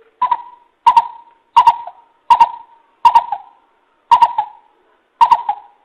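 Coucal calling: a series of seven hollow hooting notes about two-thirds of a second apart, each starting with a sharp click, with a slightly longer gap after the fifth note.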